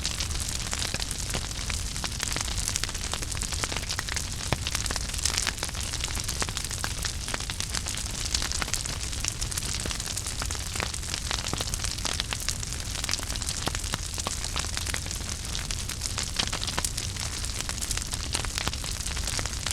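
Fire burning in a fireplace: a steady hiss and low rumble with frequent small crackles and pops throughout.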